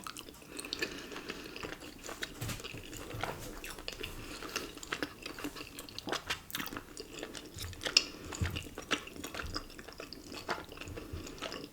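A person chewing a mouthful of cheesy ramen and rice cakes close to the microphone: a run of small, irregular mouth clicks.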